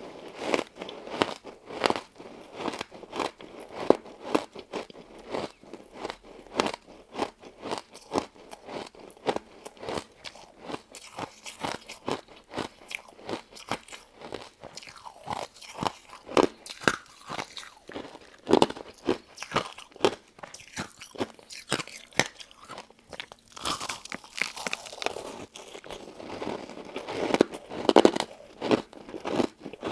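Person crunching and chewing a crystal ice dessert, a dense run of crisp cracks that keeps up throughout. Louder bites come near the end.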